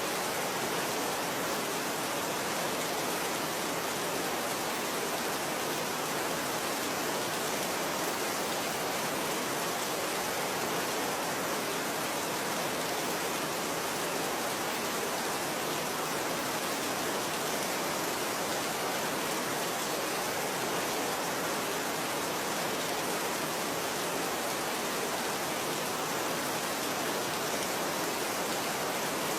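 Steady rain falling, a constant even hiss with no separate drops or thunder standing out.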